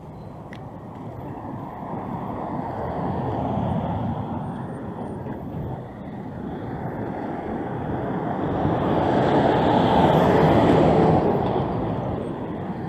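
Street traffic: motor vehicles passing, their engine and tyre noise swelling and fading twice, the second pass louder and peaking about ten seconds in.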